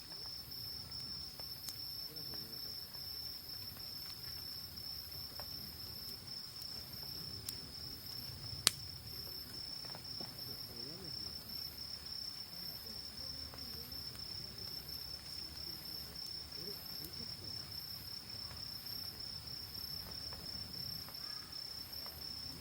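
Autumn night insects singing: one keeps up a continuous high trill while another, even higher, chirps in regular pulses. Under them runs the low noise of a wood campfire, with one sharp crack about nine seconds in.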